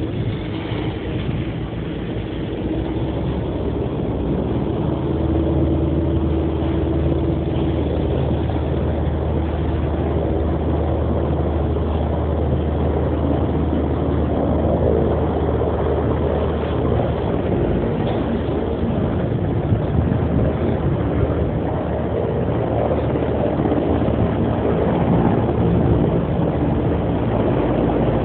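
Helicopter engine and rotor running steadily, a loud low drone that grows a little louder over the first few seconds.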